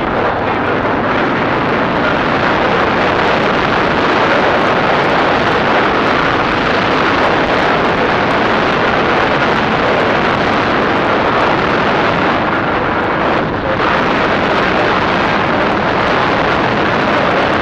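DF250RTE 250 cc dirt bike being ridden, its engine noise mixed into a loud, steady rush of wind on the microphone.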